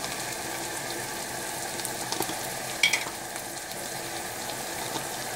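Onions, lentils, curry leaves and green chillies sizzling steadily in hot oil in a non-stick wok. A short clink sounds about three seconds in.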